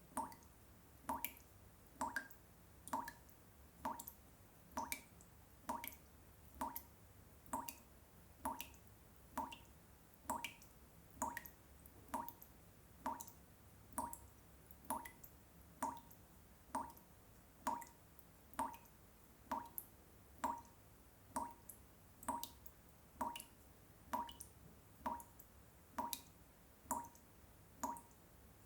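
Water drops falling one at a time into water, each a short plink, repeating evenly a little faster than once a second.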